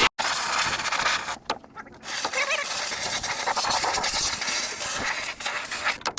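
A steady, loud hiss from cleaning the cotton picker's moisture pads, broken by two short gaps about a second and a half and two seconds in.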